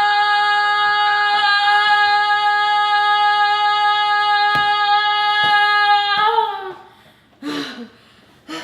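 A child singing one long, steady high note, held for about six seconds before it trails off; a couple of short vocal sounds follow near the end.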